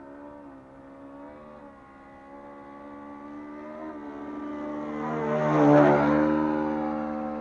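Model airplane's ASP 61 four-stroke glow engine running steadily in flight, growing louder as the plane flies past about six seconds in, then fading.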